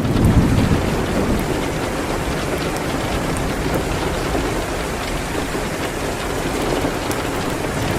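Steady rain on a window, with a low rumble swelling briefly about half a second in and scattered sharp crackles from a wood fire.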